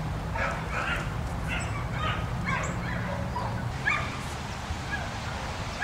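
Poultry calling: a string of short calls, about two a second, over a low steady hum.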